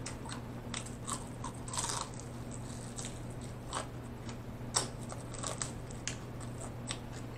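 Close-miked chewing of crispy fried chicken: irregular crunches of the breading and wet mouth clicks.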